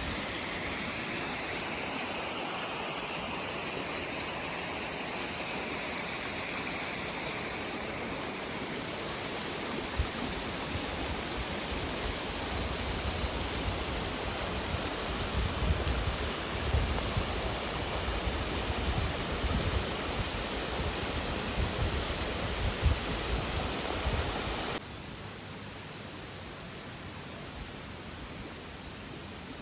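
Waterfall rushing, a steady water noise throughout, with irregular low bumps on the microphone through the middle. The sound drops abruptly to a quieter level near the end.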